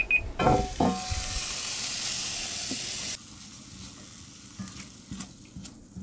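The last beeps of a kitchen timer, then green beans sizzling loudly in a hot cast-iron skillet for a few seconds. The sizzle cuts off abruptly, leaving quieter scraping as the beans are stirred with a spoon.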